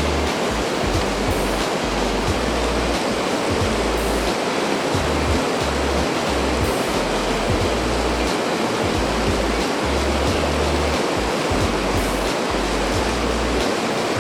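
Steady rush of a fast-flowing river, with background music's low bass notes changing underneath.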